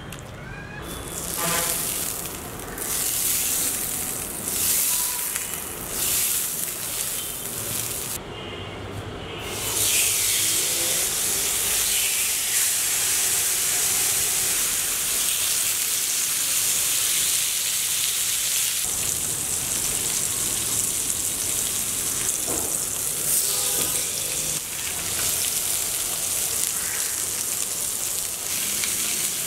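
Spice-coated chicken breasts frying in a ridged cast-iron grill pan: a few short bursts of hissing for the first several seconds, then a steady, dense sizzle from about ten seconds in.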